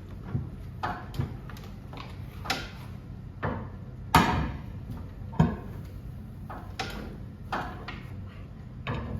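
Irregular metallic clicks and scrapes, roughly one a second, from hand tools on the set screws of a garage door torsion spring's winding cone. The screws are binding in threads still clogged with paint. The loudest strike comes about four seconds in, with another a second later.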